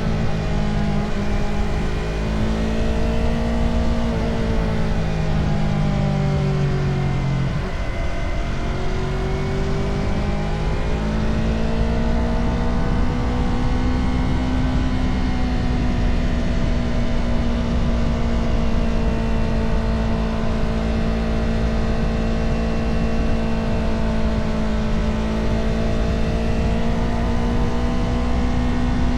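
Motorcycle engine running under way, its note sagging over the first several seconds, dipping about eight seconds in, then rising back and holding steady, with wind rushing past underneath.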